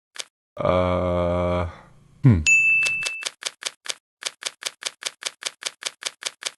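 Rapid, even typewriter-like clicking at about five or six clicks a second, with a bell-like ding as it begins. It is preceded by a short steady low hum and a quick falling swoop.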